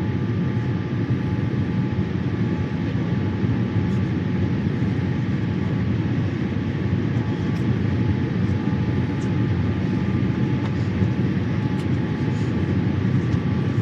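Boeing 787-8 cabin noise during descent: a steady low rumble of engines and airflow, with a couple of faint steady tones above it.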